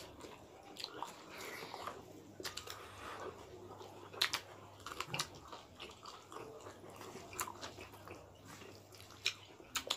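Close-miked chewing and wet mouth smacks of people eating beef curry and rice by hand, with scattered sharper clicks.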